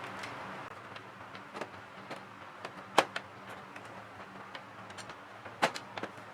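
Irregular small clicks and taps of hard plastic and metal parts being handled, with two sharper clicks, one about halfway through and one near the end, over a faint steady hum.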